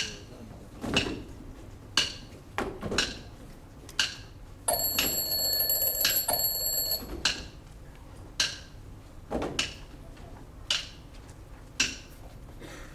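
A bright metallic bell ringing for about two and a half seconds, with a short break in it, over sharp knocks that come about once a second.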